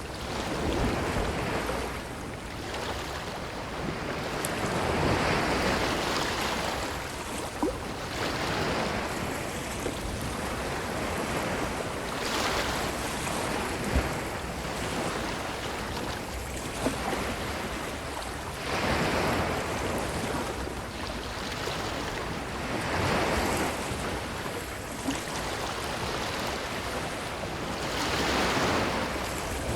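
Ocean waves breaking and washing up a beach, the surf swelling and falling back in surges every few seconds. A few brief sharp clicks stand out over the wash.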